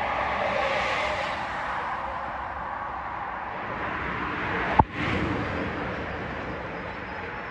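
Metro-North M8 electric multiple-unit commuter train running along the platform track, a steady rumble of wheels and motors. A single sharp click sounds about five seconds in.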